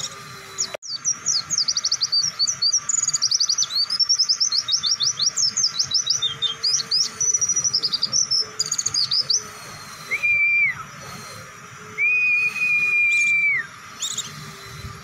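White-eye (pleci) song: a long, rapid run of high chirps and trills lasting about eight seconds, followed by two long level whistles.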